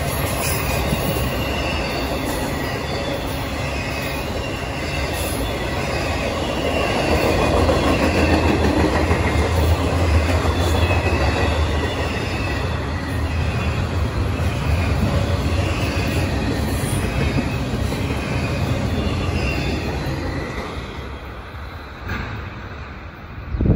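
Intermodal freight cars rolling past: steel wheels rumbling on the rails with a wavering wheel squeal, loudest about a third of the way in, then fading away as the last car goes by near the end. A brief knock comes right at the end.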